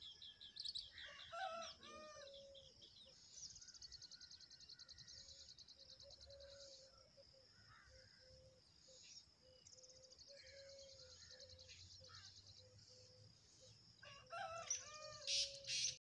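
Faint birdsong: several runs of rapid, high trilled notes, a lower call with several pitches about a second in, and louder high calls near the end.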